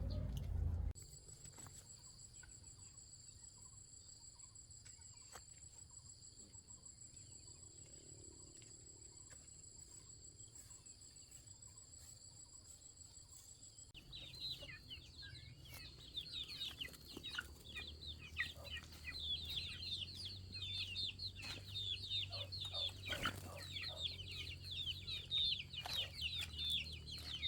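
A steady high-pitched insect drone for the first half, then suddenly, about halfway through, chickens calling with many rapid chirps and clucks that grow louder toward the end.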